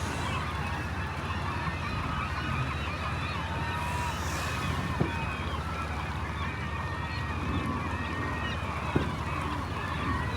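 A large flock of birds calling at once: a dense chorus of short, overlapping honking calls over a steady low rumble, with two sharp knocks, one about five seconds in and one about nine seconds in.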